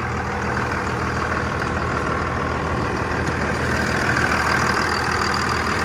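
Cummins six-cylinder turbo diesel in a 2000 Dodge Ram 2500 idling steadily.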